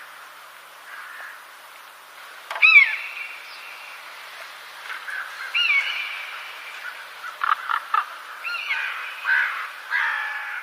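A bird calling: a sharp call with a falling pitch about two and a half seconds in, another a few seconds later, and a busier run of calls toward the end, over a faint steady hiss.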